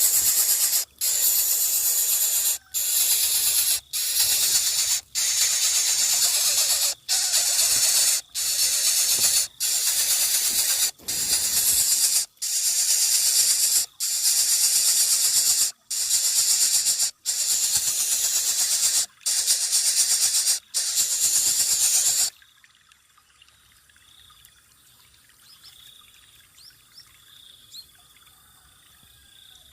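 Nestling bird of prey giving long, harsh hissing begging calls, one after another with a short breath between each, about one a second. They stop abruptly about 22 seconds in, leaving a quiet background with a few faint bird chirps.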